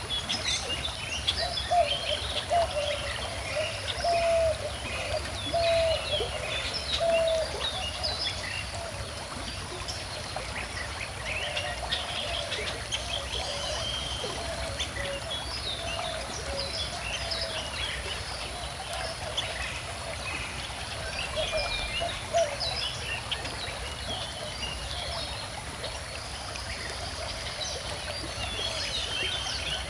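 A small stream trickling steadily while several birds sing and chirp over it, with a lower, slurred call repeated many times near the start and again midway.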